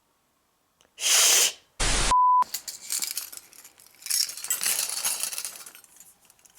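A short hiss and a harsh burst of static with a brief electronic beep, then a bunch of metal keys jangling and clinking.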